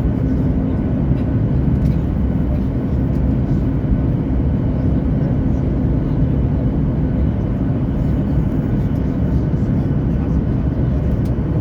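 Boeing 737 jet aircraft noise, a loud, steady low-pitched rush that holds unchanged throughout.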